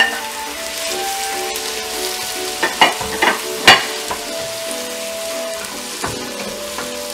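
Chopped tomatoes and onions sizzling in hot oil in a nonstick pot while a wooden spatula stirs them. A few sharp knocks of the spatula against the pot come about three seconds in.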